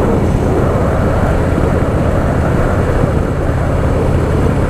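Harley-Davidson Softail Fat Boy's V-twin engine running steadily under way, with a steady rush of wind and road noise over it.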